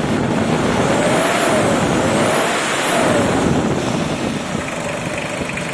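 Toyota 2C turbo diesel with a CT9 turbocharger revved twice, its turbo whistle rising and falling with each rev, while the blow-off valve vents excess boost.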